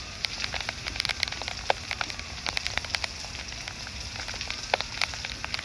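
Rain falling, with individual drops hitting close by as sharp, irregular ticks over a steady hiss.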